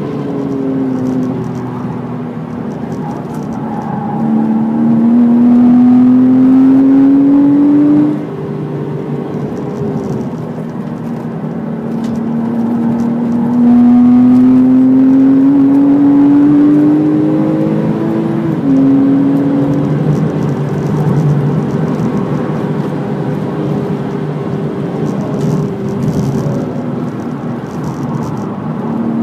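Porsche Cayman S flat-six engine heard from inside the cabin, pulling hard at high revs with road and wind noise underneath. The pitch climbs, drops away as the throttle is lifted about eight seconds in, and climbs again. It then falls sharply with an upshift from third to fourth about two-thirds of the way through.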